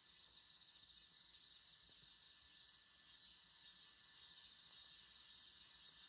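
Cicadas singing faintly: a steady high-pitched drone with a higher layer that pulses about twice a second.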